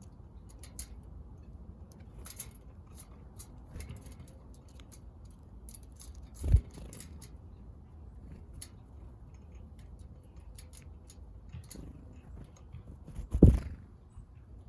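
Small backyard birds pecking at seed, a scatter of light taps and clicks. There are two louder, low thumps, one about halfway through and one near the end.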